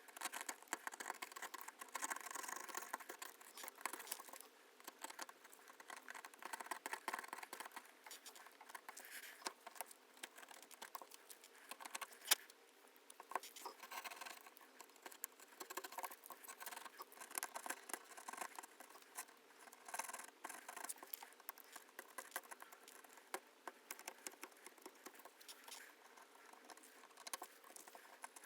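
Knife or scraping blade scraping old adhesive off an iPhone 11 Pro's frame after the back glass is removed: faint, quick scratching and small clicks, with one sharper click about twelve seconds in.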